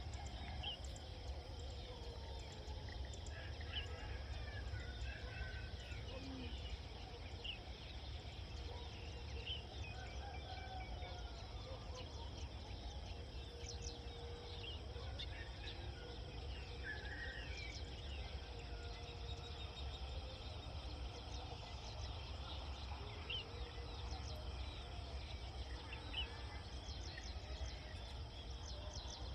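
Rural outdoor ambience: a steady low rumble under many short, scattered bird chirps and calls.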